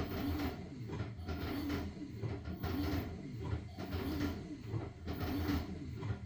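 LG washing machine in its wash cycle, the drum turning with blankets tumbling and swishing inside. The motor hum swells and fades in a steady rhythm about every second and a half, and the drum stops near the end.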